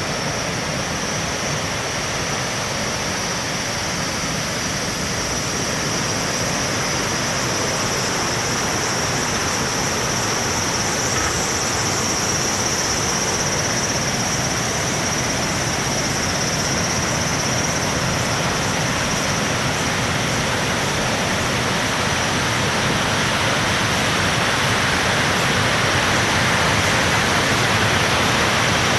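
Waterfall in heavy flow, swollen by typhoon rain: a steady, dense rush of falling water that grows a little louder toward the end.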